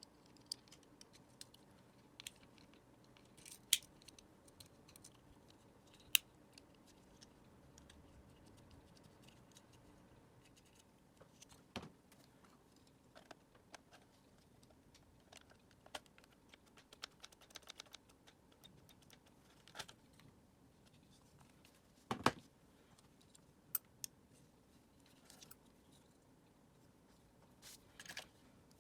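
Scattered small clicks and taps of a Dyson vacuum cleaner's plastic parts and tools being handled during disassembly, with a few sharper knocks, the loudest about 22 seconds in.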